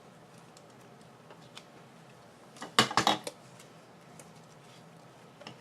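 A quick run of sharp metal clicks and knocks about three seconds in, then two more near the end: metal craft tools handled on the work table while an eyelet is set into a paper tag.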